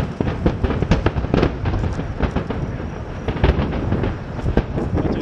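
Aerial fireworks bursting in rapid, irregular succession, several bangs a second over a continuous rumble of booms and crackle.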